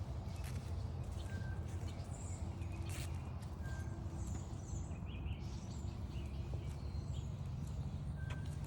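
Footsteps crunching along a forest trail over a steady low rumble, with scattered short bird chirps and a few brief whistled notes from birds in the woods.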